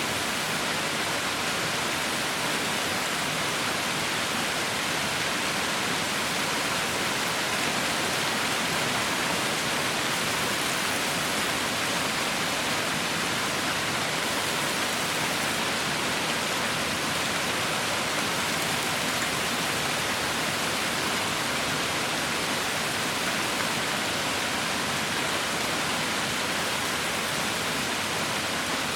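Heavy rain falling in a steady, unbroken hiss, with no single drops or thunder standing out.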